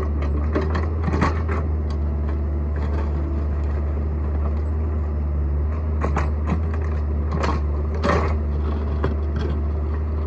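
Excavator engine running steadily, with irregular crunching and scraping as the bucket breaks up hard, compacted clay soil.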